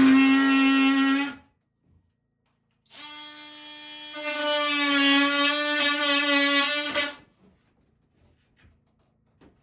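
Handheld power drill motor whining at a steady pitch in two runs. The first stops about a second in; the second starts after a short silence, gets louder partway through and stops near the end.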